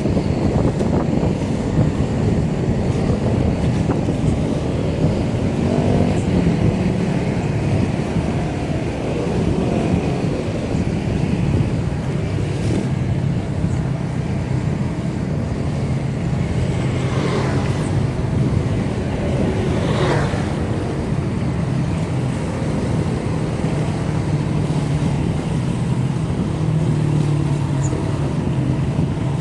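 Steady road and wind noise while riding a bicycle through traffic, with a motor vehicle passing about two-thirds of the way through.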